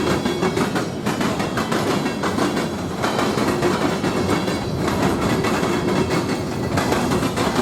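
A train rolling past with its wheels clicking over rail joints in a steady run of clacks.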